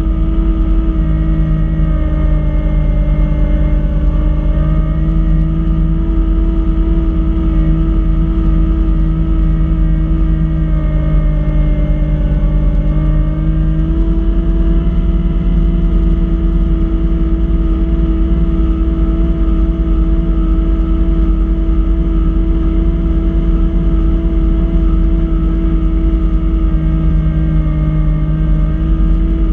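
Kubota B2650 compact tractor's three-cylinder diesel engine running steadily at working speed, driving a front-mounted snow blower. Its pitch sags slightly a few times and comes back up.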